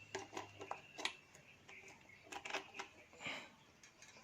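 Faint, scattered clicks and light knocks from hands and metal parts as an electric geyser's heating element rod is worked loose to be pulled out of the tank.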